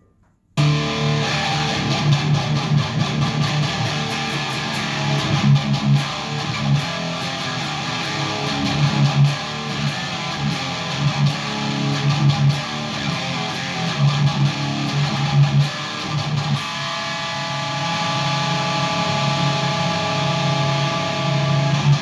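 Distorted electric guitar, a PRS Custom 22 played through a Randall Satan 120 high-gain tube amp head, riffing on low notes that start about half a second in, then settling into a held, ringing chord for the last few seconds.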